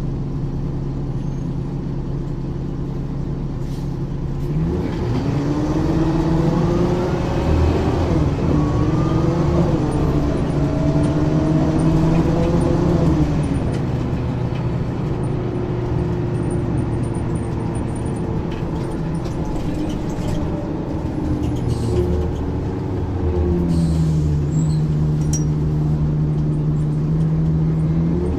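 Ikarus 435 articulated bus's diesel engine running steadily, then pulling away about four seconds in. Its revs rise and drop back in steps as the ZF automatic gearbox changes up, then it eases off. Near the end it picks up again to a steady higher note.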